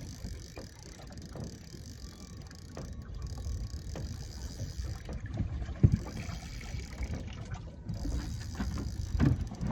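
Wind and water noise around a small boat drifting at sea: an uneven low rumble and slapping, with one sharp knock about six seconds in.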